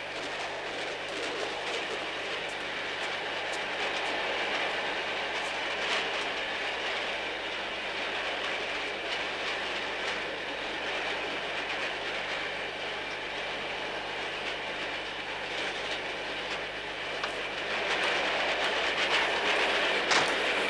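A train running at speed: a steady rumble with the clatter of wheels over the rail joints, getting louder near the end.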